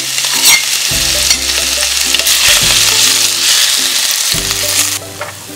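Crushed ginger and garlic sizzling in hot coconut oil in a clay pot as a wooden spoon stirs them. The sizzle drops off sharply near the end.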